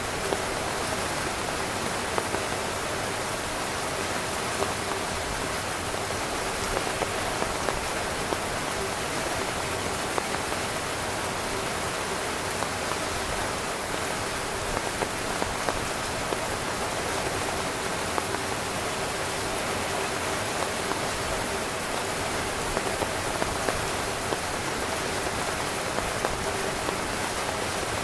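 Heavy rain drumming steadily on a tent's fabric, a dense even patter with frequent individual drops ticking out sharper.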